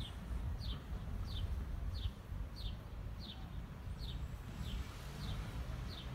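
A small bird chirping: a short, high, falling chirp repeated steadily about every two-thirds of a second, over a low outdoor rumble.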